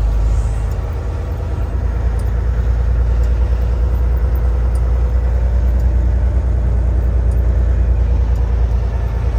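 Semi-truck's diesel engine running while driving, a steady low drone.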